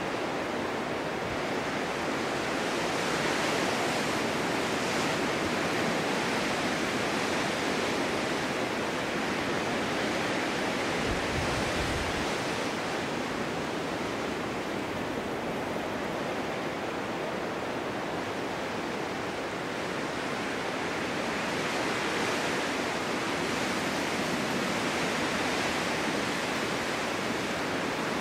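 Snowstorm wind blowing, a steady rushing noise that swells and eases in slow gusts, with a short low rumble about eleven seconds in.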